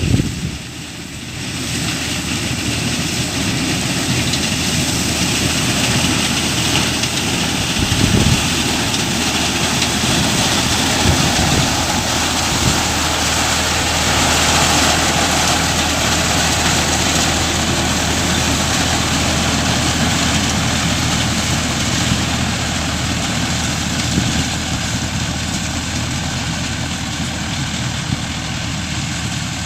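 Diesel engine of a 4×4 Mahindra Arjun Novo tractor running steadily, a low drone under a broad mechanical rush, picking up slightly about a second in.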